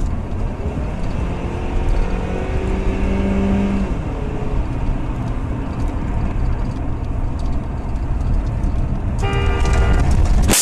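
Car driving with a steady low road and engine rumble, and a horn sounding for about a second near the end.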